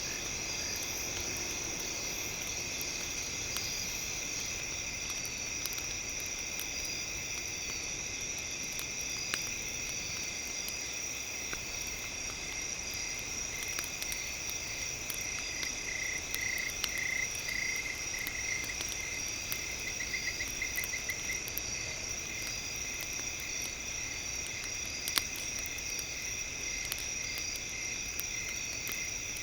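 A steady chorus of night insects, with a rapid trill about halfway through. Sharp crackles and pops of a wood campfire are scattered through it, the loudest near the end.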